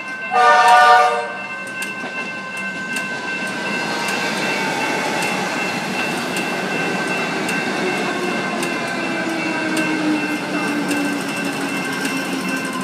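EDi Comeng electric train sounding a short horn blast about half a second in, then running past with its motor whine sliding slowly down in pitch, over the steady ringing of level crossing bells.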